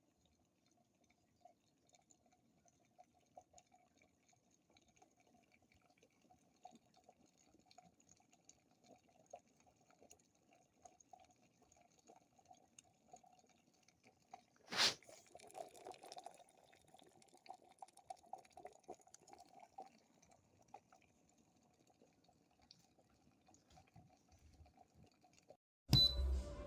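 Small portable electric kettle heating water, with a faint steady crackling and ticking of water warming on the element. There is one sharp click about halfway through, and music starts right at the end.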